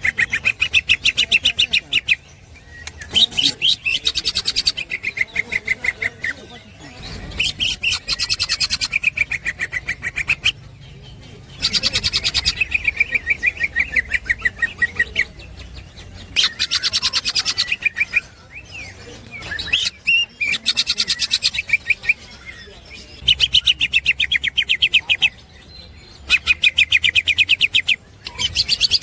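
Cucak ijo (green leafbird) singing in its ngekek style: runs of rapid, evenly repeated high chattering notes, each lasting two to three seconds, with short pauses between them.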